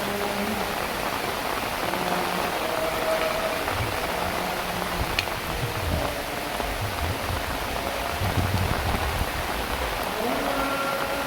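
Heavy rain falling steadily, with low gusts of wind rumbling through about the middle. Faint held tones come and go in the background.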